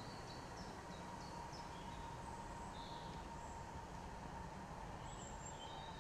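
Faint woodland birdsong: a few short, high chirps from small birds, several in the first second or so and a few more later, over a steady background hiss.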